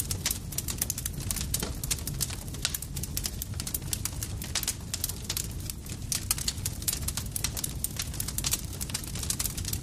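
Campfire crackling: a dense, irregular run of sharp pops and snaps over a steady low rumble of burning wood.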